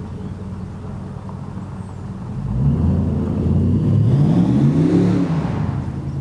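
2002 5.3L Vortec V8 in a 1977 Ford F150 idling, then revving up: the pitch climbs for about three seconds and drops back to idle near the end.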